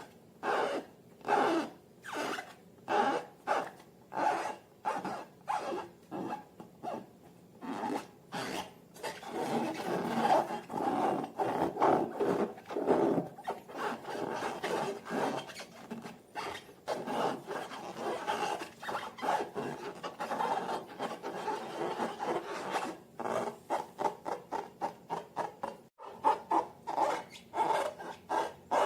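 Slime being worked and mixed, with repeated rubbing, rasping strokes. They come about one and a half a second at first, run together into a continuous rubbing in the middle, then turn quicker near the end.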